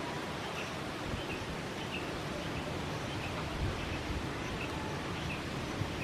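A bird chirping faintly and repeatedly, short chirps about twice a second, over a steady outdoor background hiss.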